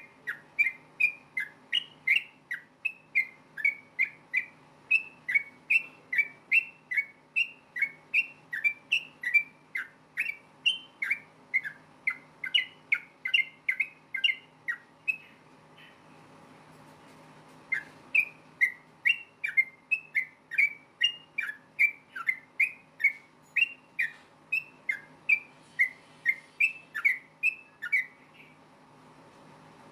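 Sooty-headed bulbul (trucukan) singing a rapid run of short whistled notes, about three a second, in its fast 'ropel' style. The run breaks off for about two seconds midway and stops near the end, over a faint steady hum.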